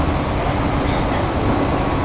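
Electric commuter train running along the line, heard from inside the carriage: a steady, loud running noise with a low hum under it.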